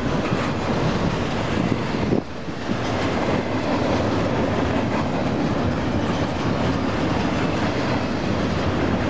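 Double-stack container well cars of a freight train rolling past: a steady rumble and clatter of steel wheels on the rails, dipping briefly about two seconds in.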